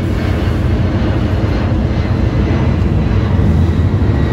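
Steady low rumble of several car engines and exhausts as cars drive slowly past.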